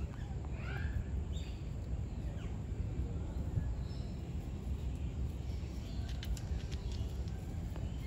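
Steady low rumble with a few short bird chirps from the background, mostly in the first second and again about four seconds in, and a brief run of faint clicks about six to seven seconds in.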